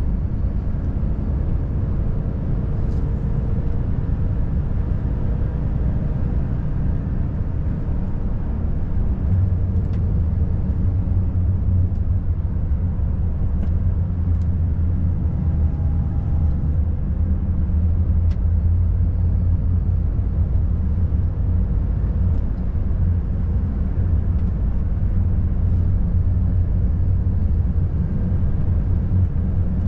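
Volvo FH540 truck's 13-litre inline-six diesel droning steadily under way, with tyre and road rumble, heard from inside the cab. The drone grows a little louder about nine seconds in, with a few faint clicks.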